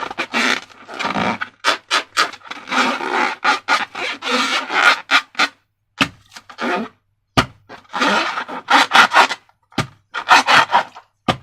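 Rubbery rubbing and scraping as slime-filled balloons and slime are handled, in repeated short strokes with brief gaps. A few sharp clicks fall in between.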